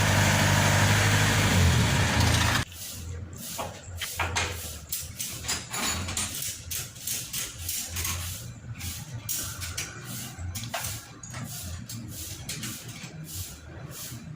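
Combine harvester engine running loudly, cutting off abruptly about two and a half seconds in. After that, scattered clicks and knocks come over a faint low hum.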